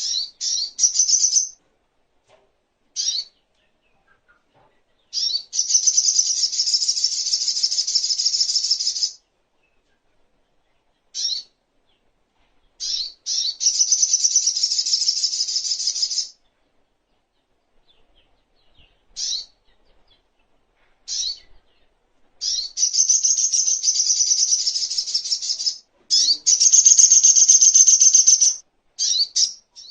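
Sogok ontong (crimson sunbird) singing: long, rapid, high-pitched trills lasting a few seconds each, broken by short single chirps and brief pauses.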